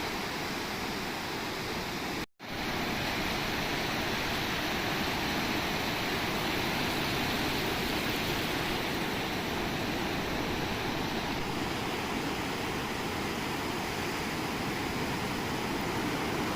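Steady rushing noise of ocean surf breaking on a beach. It cuts out suddenly for a fraction of a second about two seconds in.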